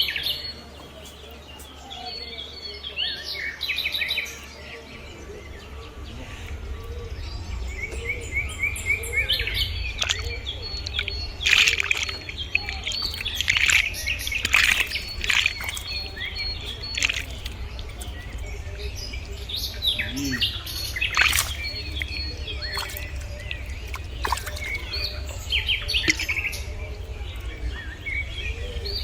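Birds chirping and calling over a steady low hum.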